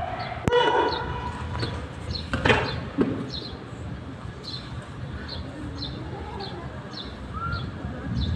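Outdoor background noise with a small bird chirping, one short high note about twice a second. There is a knock about half a second in and a brief louder sound about two and a half seconds in.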